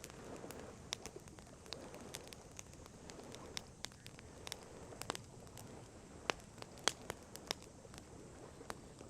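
Wood campfire crackling, with scattered sharp pops throughout and several louder pops in the second half. A dove cooing softly in the first few seconds.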